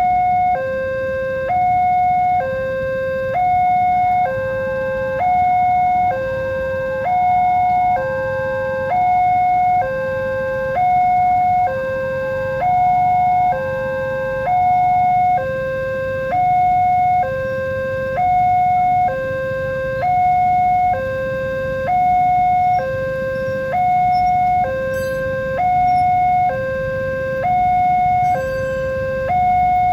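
Electronic level-crossing warning alarm sounding an even two-tone pattern, a higher tone and a lower tone alternating about once a second, signalling that a train is approaching and the barrier is closing.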